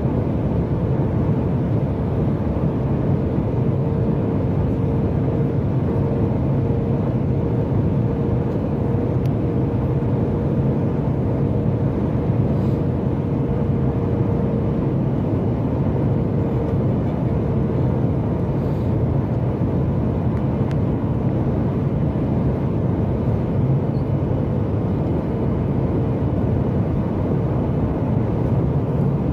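Cabin noise inside a Boeing 737 MAX 8 airliner: a steady rush of engine and airflow noise with a low hum and a faint steady tone that fades in and out.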